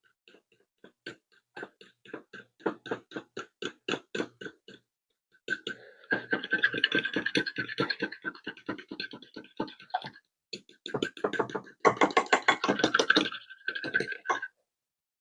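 Fork whisking beaten eggs in a bowl: rapid clicking taps, about four a second at first, then two fast runs of dense clicking separated by a short pause.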